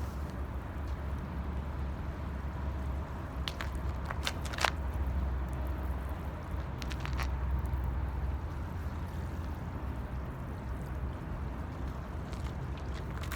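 Wood fire burning in an 18-litre metal can, with a steady low rumble and a few sharp crackles and pops scattered through it.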